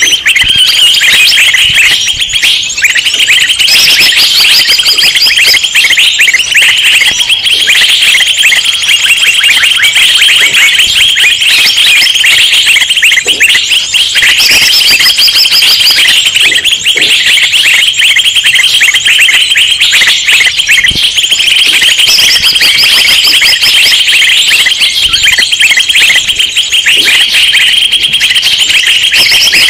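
A dense, agitated chorus of many small songbirds chirping and chattering at once without a break, the kind of noisy bird-lure (pikat) recording played to draw wild birds in. Short, higher-pitched phrases break through the chatter every few seconds.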